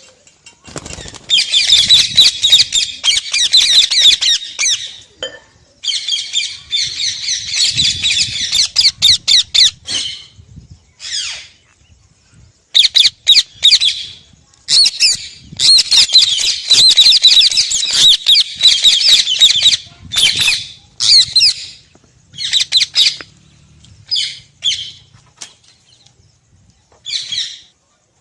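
Pet parrot squawking in long shrill runs of rapid calls lasting a few seconds each, broken by short pauses, then giving shorter single calls in the last third.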